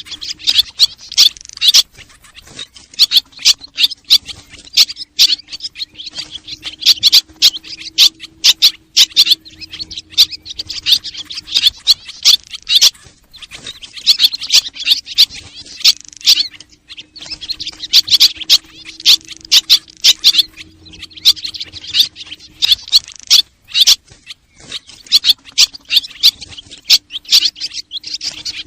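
A dense chorus of swallows twittering and chirping rapidly, in stretches of several seconds with short lulls between, over a faint steady low hum.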